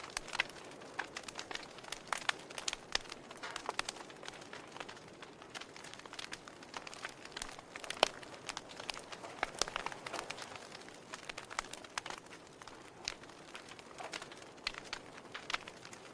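Wood fire crackling: irregular sharp pops and snaps over a soft steady hiss, with one louder pop about halfway through.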